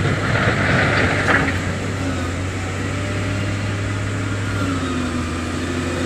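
Heavy diesel construction machinery engine running steadily under a low drone, with a noisy rush over it for the first second and a half.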